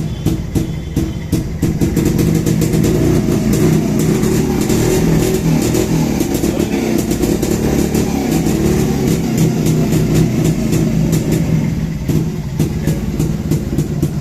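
Restored 1964 Jawa motorcycle's two-stroke engine running with rapid, even exhaust pulses. It gets a little louder from about two seconds in and eases back near the end.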